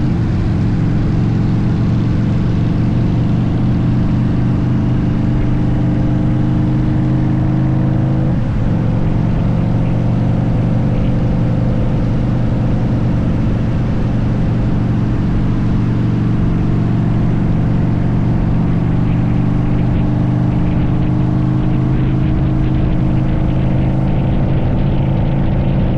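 Harley-Davidson V-twin motorcycle engine running under way, its pitch climbing slowly, with a brief break about eight seconds in and a slow rise again near the end. Wind rushes under the engine sound throughout.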